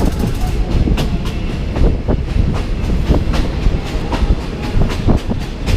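Passenger train running along the track, heard from on board: a steady low rumble with irregular clatter and knocks from the wheels and carriage.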